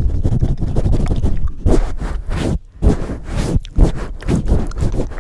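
Close-miked ASMR scratching and rubbing directly against the microphone: a dense run of low rumbling thuds and scratchy swishes, with a brief hush about two and a half seconds in.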